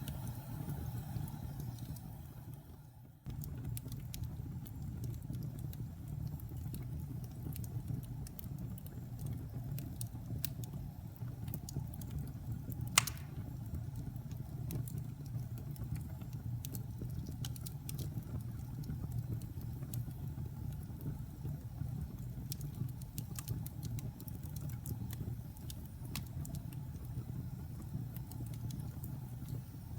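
Wood fire burning in a fireplace: a low steady rumble with scattered crackles and one sharp pop about 13 seconds in. About three seconds in, the sound fades down and cuts back in abruptly.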